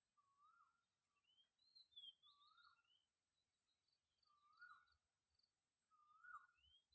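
Wild birds calling faintly: a mid-pitched call that rises and falls comes back four or five times, with short, higher chirps in between.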